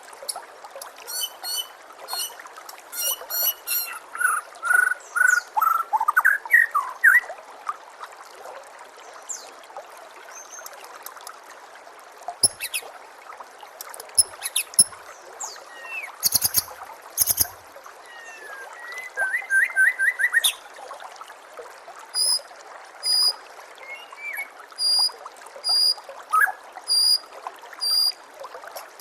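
Songbirds calling and singing in short phrases over a steady trickle of running water. There are rapid runs of high chips in the first few seconds, and about one sharp high chip a second near the end.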